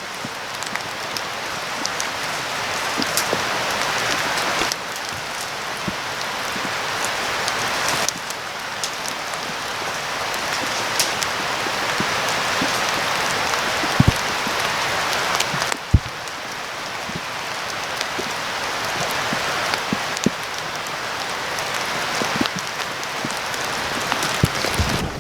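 Steady patter of sleet and rain, with many scattered sharp ticks of drops and pellets striking.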